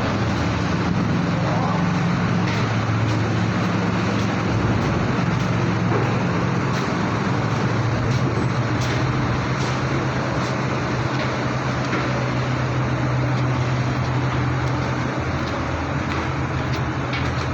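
Heavy diesel engines droning steadily at a low pitch over a constant wash of noise, with a few faint clicks.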